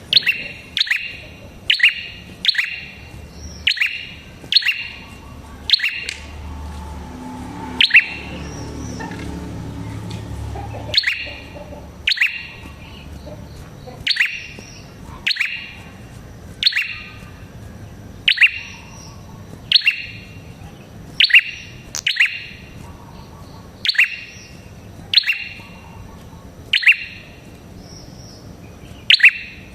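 A prenjak kepala merah (a small songbird) giving loud, sharp call notes, one about every second. Each note drops quickly in pitch. Around a third of the way through, the calls stop for a few seconds and a low rumble fills the gap, then the calls resume.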